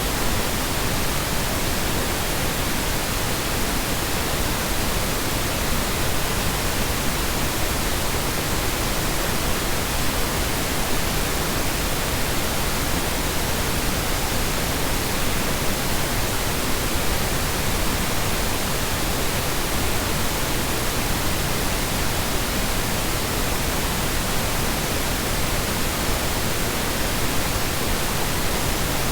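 Steady generated colour noise: a constant, even hiss spread across low and high pitches, with no changes, loops or other sounds.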